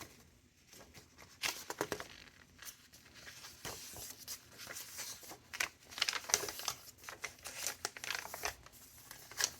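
Paper pages of a thick handmade junk journal being turned and handled: irregular rustling and crinkling of paper with small taps.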